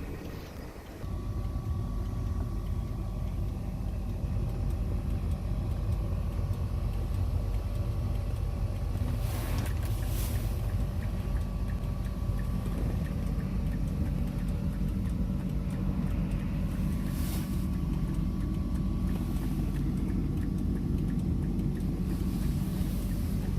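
Mazda 6 MPS's turbocharged 2.3-litre four-cylinder engine running with a steady low rumble, growing louder about a second in, over a faint steady whine. A few brief hissing swishes come and go.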